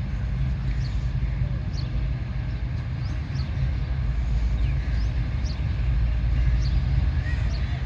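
Steady low rumble of a train running, with short high chirps repeating over it.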